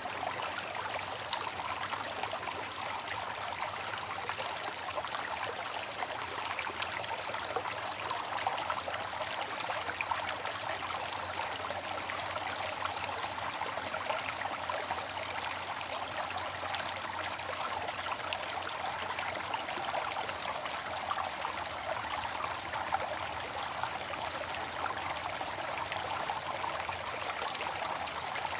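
Water fountain splashing and trickling steadily, a continuous even rush of falling water with no change throughout.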